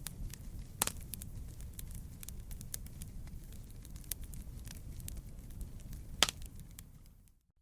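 Wood campfire burning: a steady low rumble of flames with scattered crackles and snaps, two sharper pops about a second in and after about six seconds. The sound fades out briefly at the very end.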